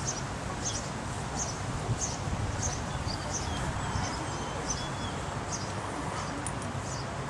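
A bird calling with short, high chirps that repeat about three times every two seconds, over a steady outdoor hiss of wind and rustling.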